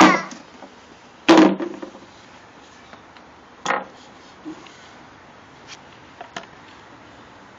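A baby's wavering cry trails off at the start, then a few scattered knocks and clatters, the loudest about a second in, with fainter clicks later.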